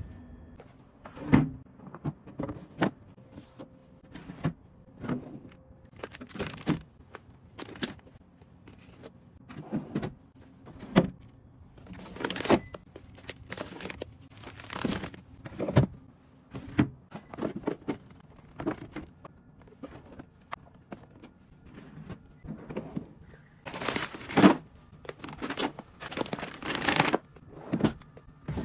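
Plastic packaging rustling and crinkling while groceries are handled, with irregular sharp clicks and knocks of items set down; longer rustles come in the middle and near the end.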